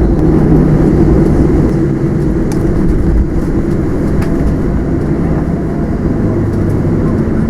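Steady low rumble of a Boeing 737-700's cabin while it taxis after landing, with its CFM56-7B engines at idle.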